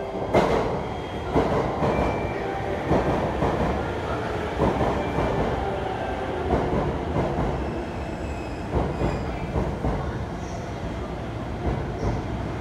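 Chuo-Sobu Line local commuter train running into the station and slowing to a stop, a steady rumble broken by irregular knocks from the wheels, the loudest about half a second in.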